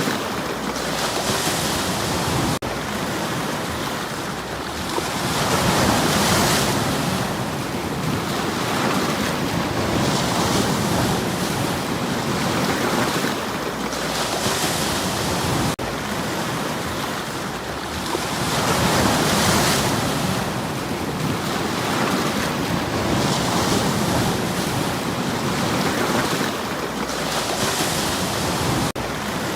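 Sea waves breaking and washing over stones on a shore, the surf swelling and falling back every few seconds.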